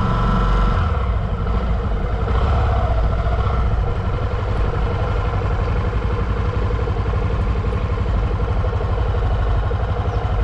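Motorcycle engine running steadily with a fast, even low pulse and no revving.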